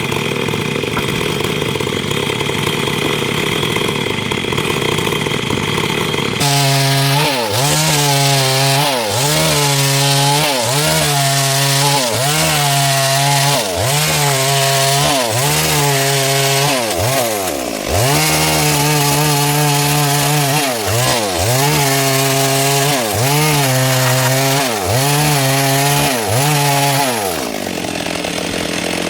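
Stihl MS 382 two-stroke chainsaw cutting wood. For the first six seconds it runs steadily; then the engine pitch repeatedly sags and recovers about once a second as the chain takes load in the cut.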